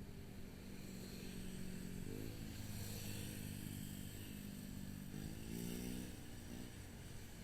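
Motorcycle engine running under way, its pitch rising as it is opened up about two seconds in and again near the end, with steady road and wind hiss.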